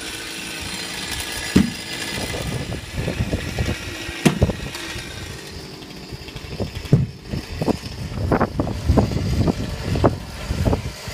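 Two-stroke chainsaw engine running, mostly at a low, idling pace, with many irregular low thumps over it.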